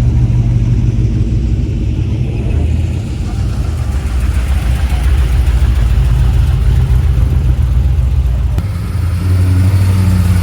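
A car engine running with a steady low rumble that shifts slightly in pitch near the end.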